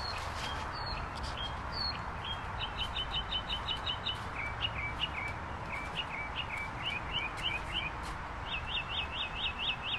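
A songbird singing a string of short whistled phrases, each phrase repeated several times before it switches to the next, over a steady low outdoor background.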